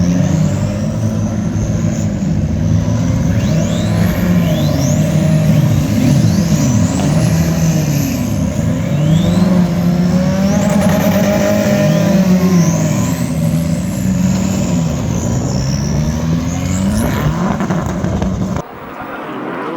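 Several British F4 single-seater race car engines running and revving out on track. Their pitches overlap, rising and falling as the cars pass, with a high whine over the top. The sound drops off suddenly near the end.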